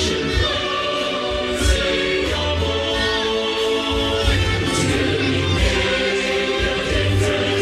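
A large choir and crowd singing a song together with instrumental backing music.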